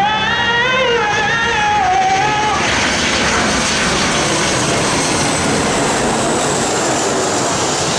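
A sung vocal line cuts off about two and a half seconds in, giving way to the steady rushing noise of an airliner's engines, with a faint high whine slowly falling in pitch.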